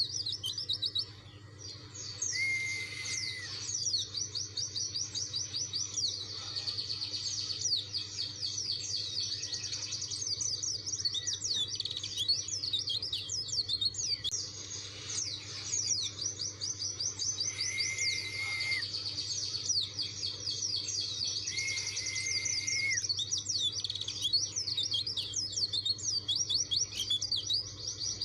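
Pleci dakun (a white-eye) singing a fast, continuous twittering song of rapid high chirps, with a short break about a second in. A few level, lower whistles about a second long cut in three times.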